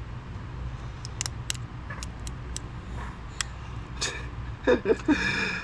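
Sharp little plastic clicks and snaps, half a dozen or so spread over a few seconds, as brittle, cracked ignition coil connector clips on a VW engine are worked loose and break, over a steady low hum.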